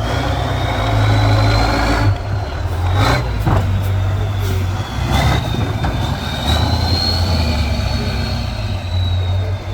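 Heavy off-road trial truck engine running under varying load, with a high whine rising and falling over it. Several sharp knocks come about two to five seconds in.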